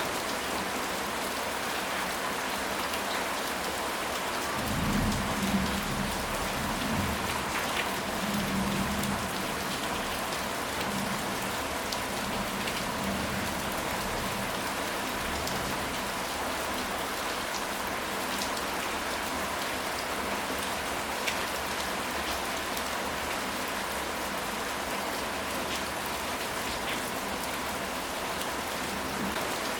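Steady rain falling, an even hiss of drops. A low rumble swells about five seconds in and dies away a few seconds later.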